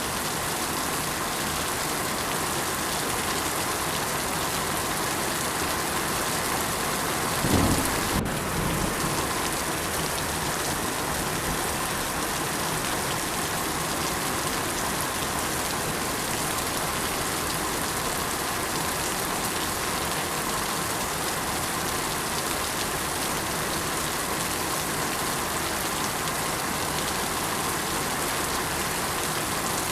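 Steady rain falling on surfaces, with a brief low rumble about seven and a half seconds in.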